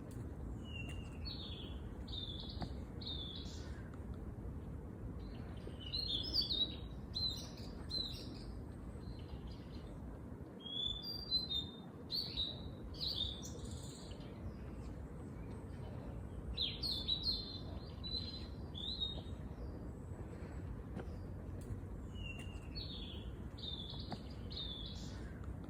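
Songbird singing, short phrases of quick high notes repeated about every five seconds, over a steady low background noise.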